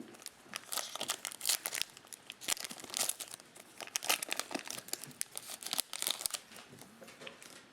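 Plastic trading-card pack wrapper crinkling as it is torn open and handled: a dense, irregular run of sharp crackles.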